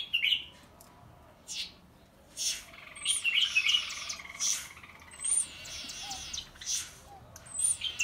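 Small birds chirping and calling in short bursts, with a brief high whistling call that comes three times, about two seconds apart.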